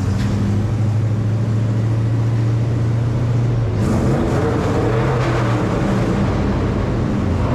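A vehicle engine running loudly and steadily, then revving up about four seconds in with a rush of noise.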